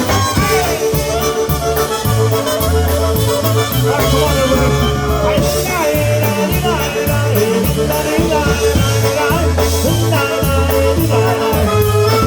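Live polka band playing an up-tempo polka, with a steady bass beat under the melody.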